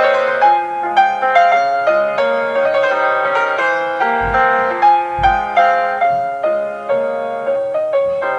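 Solo piano playing a classical piece, a melody of struck notes about two to three a second over held lower notes.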